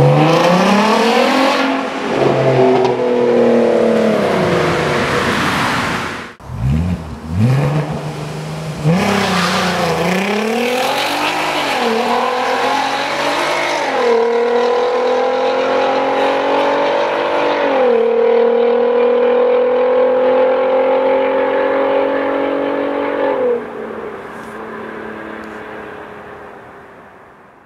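Volkswagen Golf Mk5 R32's VR6 engine through a Capristo aftermarket exhaust, revving and accelerating with the pitch rising and falling. About six seconds in it breaks off and picks up again, then comes a long climbing pull broken by two upshifts, before it fades away near the end.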